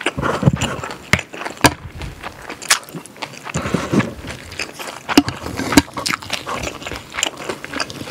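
Close-miked chewing of stir-fried pork and kimchi: wet mouth sounds and lip smacks with many sharp clicks.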